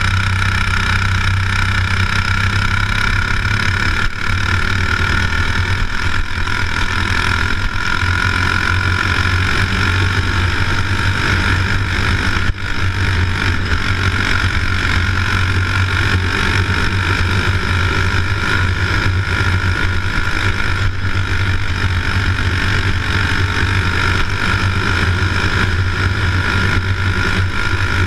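A steady engine drone with a strong low hum, running without pause.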